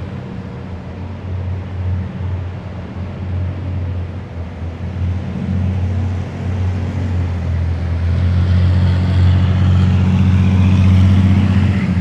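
Heavy military vehicles driving past in a column, their diesel engines giving a steady low rumble that grows louder from about two-thirds of the way in as a vehicle comes close, with rising road noise at its loudest.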